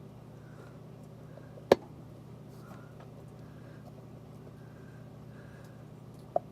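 Two sharp clicks, one about a second and a half in and a smaller one near the end, over a steady low hum.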